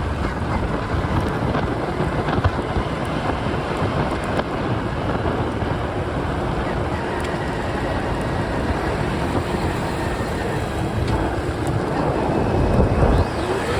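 Steady rush of wind and road noise while riding a motorbike along a highway, with traffic around.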